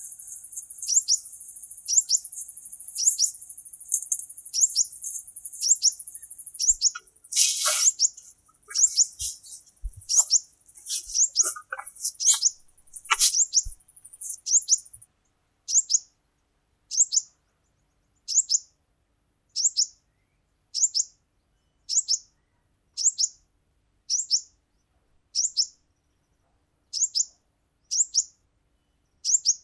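A bird repeating a short, high call that slides down in pitch, evenly about once a second. A cluster of knocks and rustles comes between about 7 and 14 seconds in.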